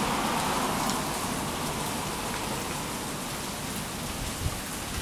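Steady rain falling, with a low rumble dying away in the first second or two.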